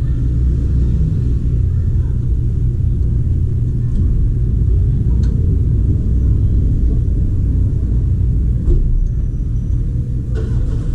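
Steady low rumble, with a few faint light clicks of metal parts being handled as valve springs are compressed on a cylinder head.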